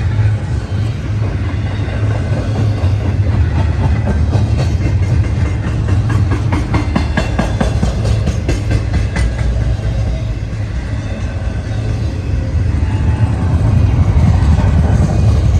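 Freight train rolling past: a steady low rumble of the cars, with a run of rapid wheel clicks over the rail joints in the middle.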